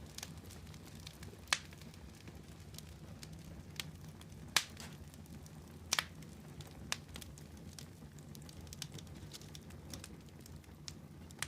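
Fire crackling in a fireplace: irregular sharp pops and ticks, the loudest about a second and a half, four and a half and six seconds in, over a low steady background hum.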